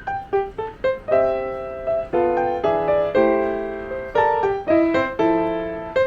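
Background music: solo piano playing a melody of single notes, then sustained chords.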